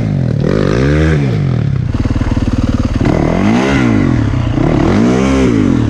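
Yamaha YZ450FX four-stroke single-cylinder dirt bike engine revving up and dropping back repeatedly, about once a second, as the rider tries to find traction climbing a steep rocky hill.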